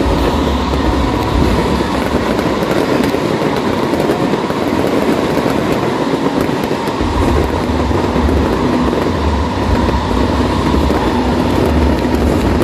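Stadium fireworks display: a loud, steady roar of spark fountains and bursting shells with scattered crackles. A heavy low rumble drops away for a few seconds in the middle, then returns.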